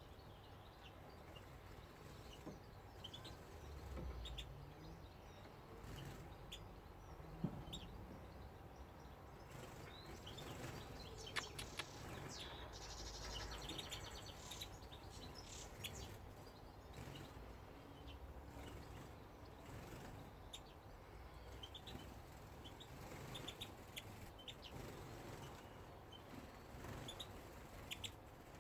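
Faint chirps and short calls of small aviary birds, scattered through, with a denser run of rapid chirps about halfway and a few sharp clicks.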